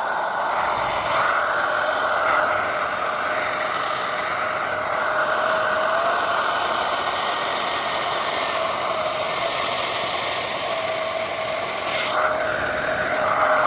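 Handheld hair dryer running steadily, a whine over the rush of air. It switches off abruptly at the very end.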